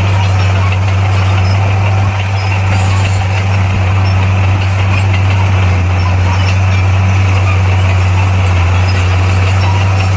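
Bulldozer's diesel engine running at a steady speed, with a constant low hum.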